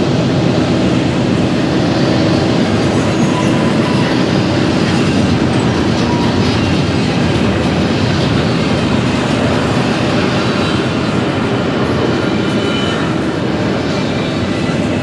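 Double-stack intermodal container train rolling past: a steady rumble of steel wheels on rail with clickety-clack over the rail joints, and a few faint, brief wheel squeals.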